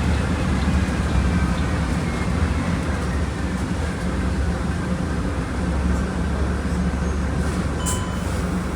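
Engine of a Volkswagen Volksbus 17.230 Euro 6 bus running steadily with a low, even rumble, with a short click near the end.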